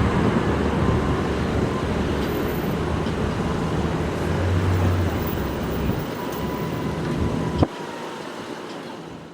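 Steady road traffic noise, a rumbling wash of passing vehicles. A sharp click comes about seven and a half seconds in, after which the low rumble drops away and the sound fades.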